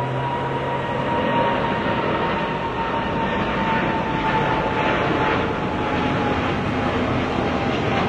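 A large vehicle running steadily: a loud, even rushing noise with a thin high whine that slowly falls in pitch.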